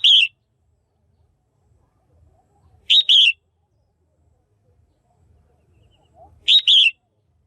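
Female red-whiskered bulbul calling loudly: a short two-note call, given three times about three seconds apart.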